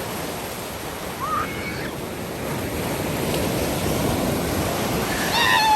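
Sea surf washing onto a sandy beach, a steady rush that swells through the middle. Right at the end, a high call falls sharply in pitch.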